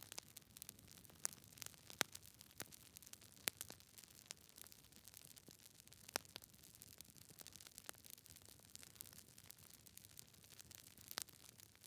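Wood fire in a fireplace crackling: irregular sharp pops and snaps from the burning logs over a soft hiss, with a few louder pops about two seconds in, at three and a half seconds, and near the end.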